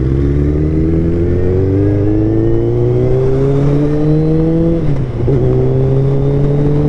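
Suzuki Hayabusa's inline-four engine running through an Akrapovič full-system exhaust, heard while riding. The revs climb slowly and steadily, drop sharply at a gear change about five seconds in, then climb again.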